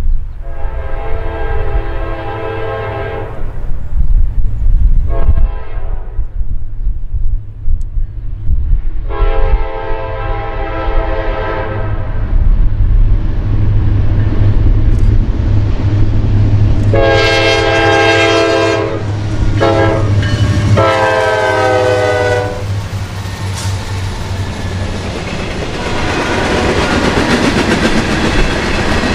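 Freight train's diesel locomotive air horn sounding a series of blasts, long ones and a couple of short ones, over the low rumble of the engine. In the last few seconds the train arrives and rolls past with a rising rush and clatter of wheels on rail.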